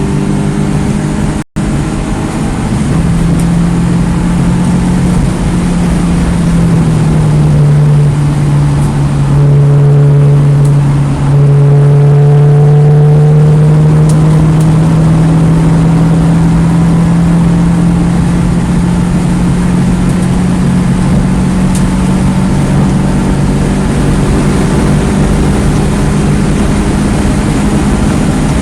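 2009 Mini Cooper S's turbocharged 1.6-litre four-cylinder engine running hard at high revs on track, heard from inside the car over wind and tyre noise. The pitch drops between about six and eight seconds in, then holds and slowly falls. The sound cuts out for an instant about a second and a half in.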